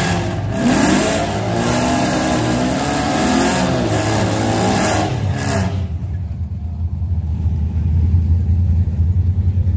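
Drag-prepped Chevrolet Camaro engine revved hard and held high during a burnout, the pitch rising and falling over the hiss of spinning rear tyres. About six seconds in the revs cut off and the engine drops to a low, pulsing idle as the car rolls forward.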